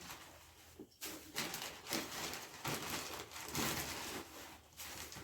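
Wood shavings rustling and crunching in uneven bursts as they are handled and spread, starting about a second in.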